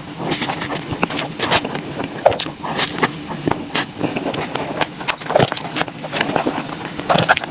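Close-miked eating sounds: chewing and wet mouth smacks from someone eating soft desserts, in a steady run of irregular small clicks.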